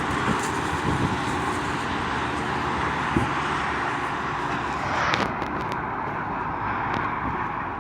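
Train hauled by a Henschel locomotive running past, a steady rushing noise with a few scattered knocks and a brief swell about five seconds in.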